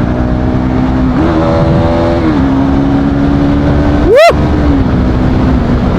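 Bajaj Pulsar NS200 single-cylinder engine running while riding, a steady hum that rises in pitch for about a second with the throttle, then settles back. About four seconds in, a short rising-and-falling tone cuts in briefly over it.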